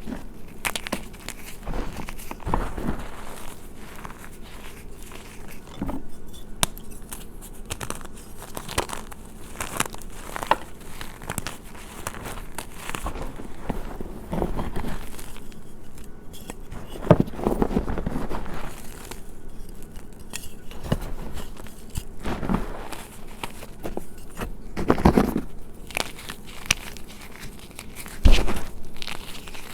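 Gym chalk being crushed: irregular dry crunches and crumbling crackles, with a few louder crunches around the middle and near the end.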